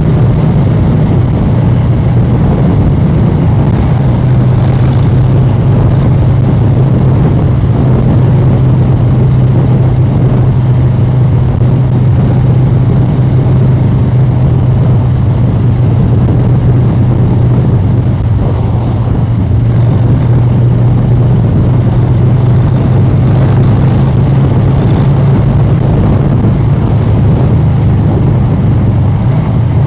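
Harley-Davidson Street Bob 114's Milwaukee-Eight 114 V-twin running through a new aftermarket exhaust, loud and steady at an even engine speed while cruising, easing off slightly about two-thirds of the way through.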